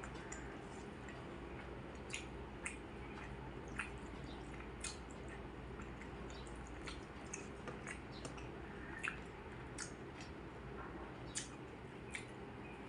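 A person chewing food, with wet mouth smacks and scattered soft clicks at irregular intervals over a steady low hum.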